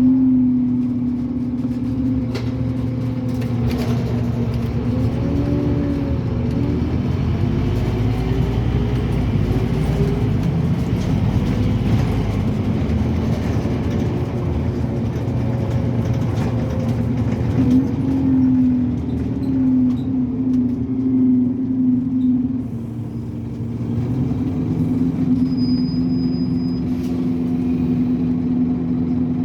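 Scania N270UD OmniCity double-decker bus running under way, its diesel engine and driveline heard from on board. The engine note rises and falls several times as the bus accelerates and eases off, over a steady low rumble of road noise.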